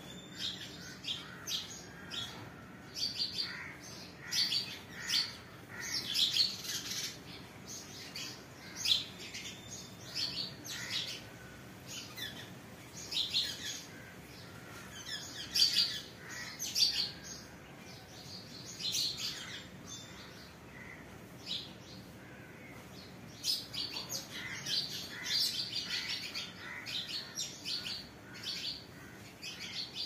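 Small birds chirping: many short, high chirps and tweets in irregular runs, some louder than others.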